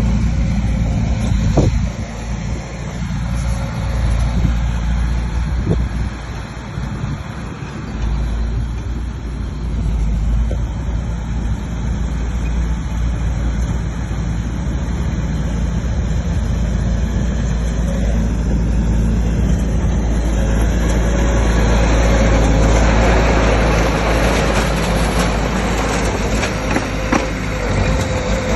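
Bulldozer's diesel engine running steadily at work. It grows louder and harsher about two-thirds of the way through.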